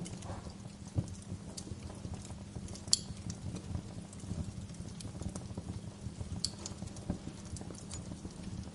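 Wood fire crackling: a steady low rumble of burning logs with irregular sharp pops and snaps, the loudest pop about three seconds in.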